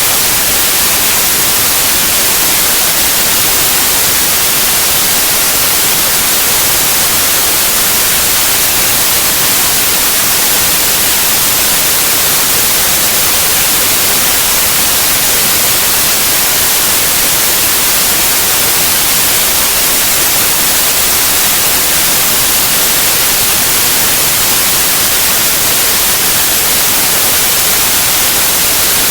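Steady white noise: an even hiss, strongest in the treble, with no change over time.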